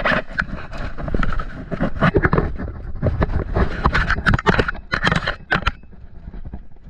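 Irregular sharp clicks and knocks with scraping and rustling in between: the handling, movement and shot noise of an airsoft game, close to the microphone.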